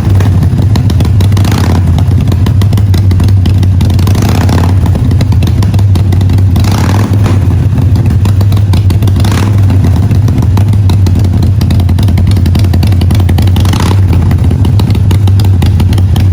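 Harley-Davidson Iron 883's air-cooled V-twin running loudly through a Vance & Hines exhaust, holding a steady idle with about five short throttle blips.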